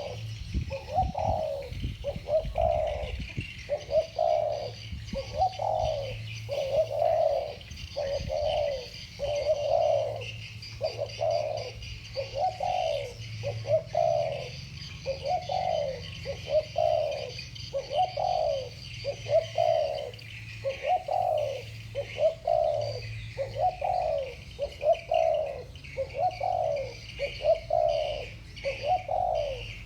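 Two spotted doves cooing against each other in the deep, round 'thổ bầu' voice prized by Vietnamese dove keepers. Their low coos follow one another about once a second without a break. Faint high chirping runs behind them.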